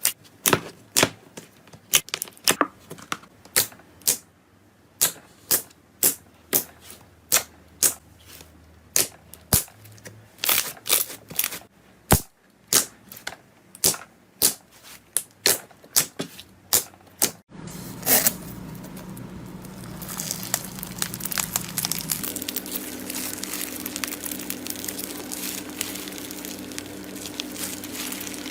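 Crunchy material being crushed by hand in a run of sharp crunches, about two a second; about two thirds through the sound changes to a continuous crackling crunch over a faint steady hum.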